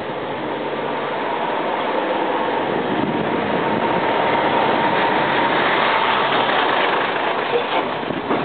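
Tobu 30000 series electric commuter train approaching on curved track, its running noise building gradually, with a faint steady whine through the middle.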